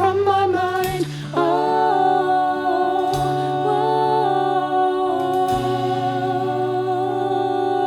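Musical-theatre song: voices holding long, wavering notes in harmony over accompaniment, with the bass moving to a new note every couple of seconds.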